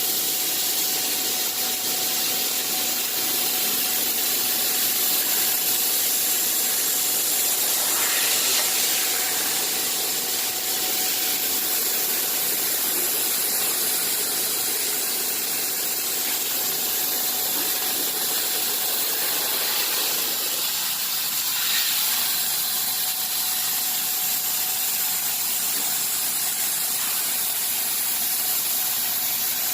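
Bystronic CNC machine running: a steady hiss with a faint constant whine through it, shifting slightly about eight seconds in and again a little after twenty seconds.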